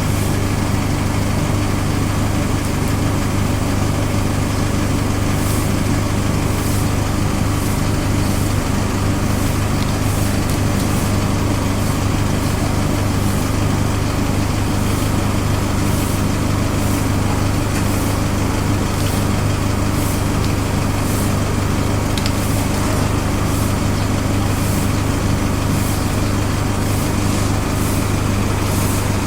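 A steady low mechanical hum that does not change, with faint short hissy sounds high up coming and going irregularly from about five seconds in.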